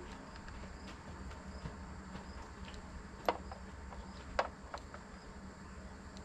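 A low steady hum with a few short, sharp clicks; the two loudest clicks come about three and four and a half seconds in.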